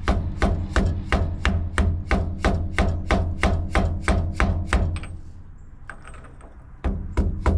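Hammer tapping on a socket used as a seal driver to seat a new power steering pump seal: a steady run of light taps, about three a second. The taps stop for about two seconds and start again near the end.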